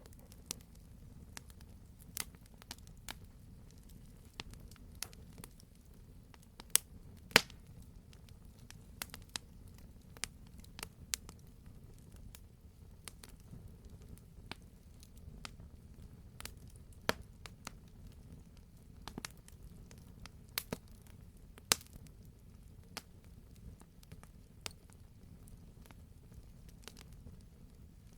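Wood fire burning in a fireplace: a steady low rumble with scattered sharp crackles and pops at irregular intervals. Two of the loudest pops come close together about seven seconds in, and a few more strong ones land later on.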